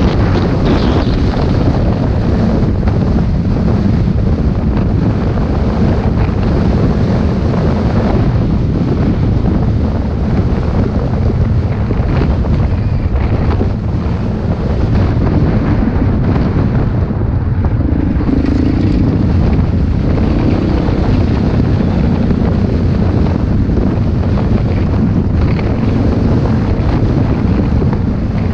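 Heavy wind buffeting on the microphone, with motocross bike engines running under it.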